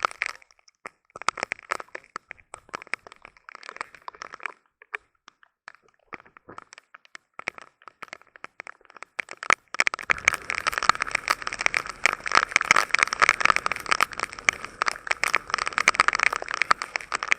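Heavy rain falling, its drops striking close by as a dense rapid patter of ticks. The downpour thins to scattered drops for a few seconds in the middle, then comes back hard and steady about ten seconds in.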